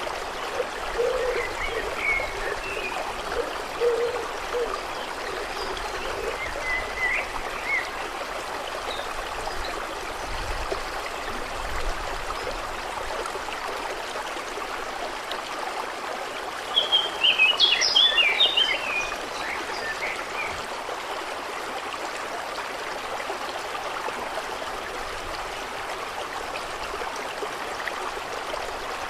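Steady flowing water trickling, with frogs croaking in the first few seconds and birds chirping now and then. A short flurry of bird song about seventeen seconds in is the loudest sound.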